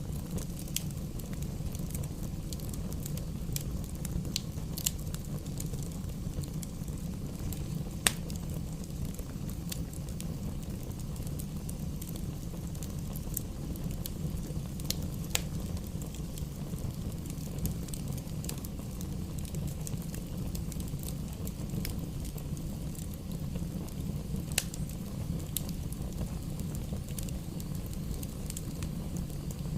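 Campfire burning: a steady low rumble with scattered sharp crackles and pops from the burning wood, one pop about eight seconds in standing out above the rest.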